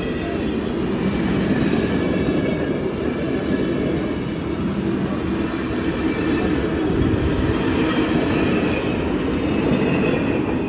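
Union Pacific Big Boy steam train rolling past at close range: a steady rumble of wheels on the rails with some clatter and faint wheel squeal.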